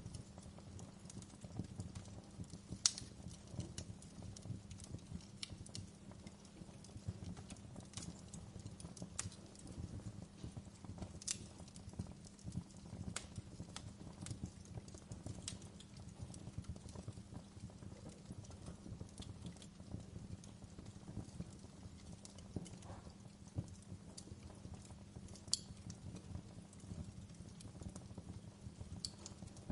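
Wood fire in a fireplace crackling: irregular sharp pops and snaps over a steady low rumble of burning, with two louder pops, one about three seconds in and one near the end.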